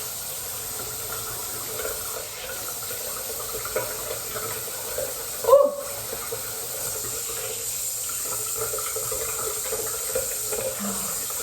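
Bathroom sink tap running steadily, with a brief louder sound that falls in pitch about halfway through.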